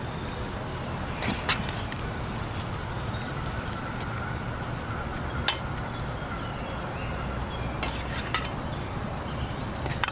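Ground beef frying and sizzling in a pan over a campfire, with a few sharp clinks of a utensil against the pan as it is stirred.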